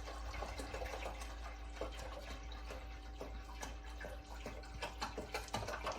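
Water pouring steadily from a gallon jug into a humidifier's water tank, with a few light knocks.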